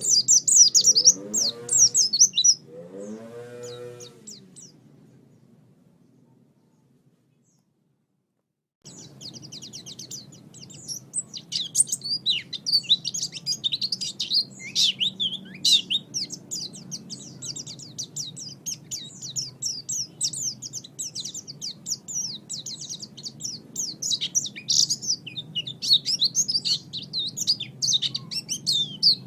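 Pleci (white-eye) song: rapid, high, twittering chirps. The song fades away during the first few seconds into a brief silence, then starts again suddenly about nine seconds in and runs on as a continuous chattering warble.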